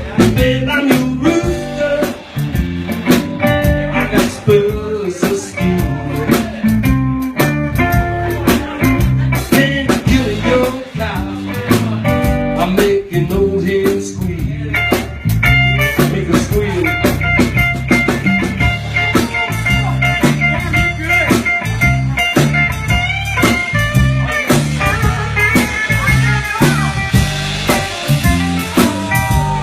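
Blues band playing an instrumental passage led by guitar over a steady low bass line, with long held, bending notes in the second half.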